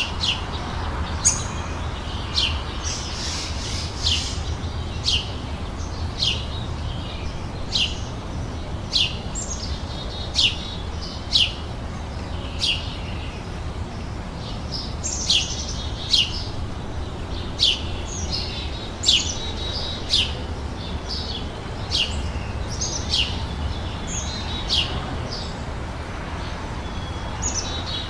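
Birds singing outdoors, with sharp, short chirps that sweep downward, repeated about once a second, over a steady low rumble.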